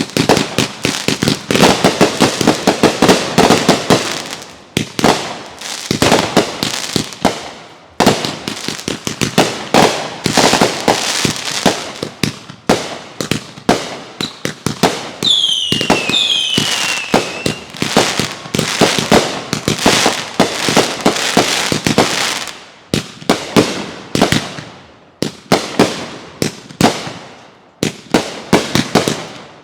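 Fireworks going off in a rapid, dense barrage of bangs and crackling reports, with short lulls between volleys. About halfway through, two whistles fall in pitch over the bangs.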